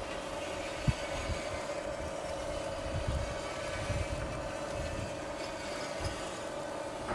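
Homemade electric profile bending machine running: its motor gives a steady hum, with occasional low knocks and clunks from the rollers and drive, the sharpest about a second in.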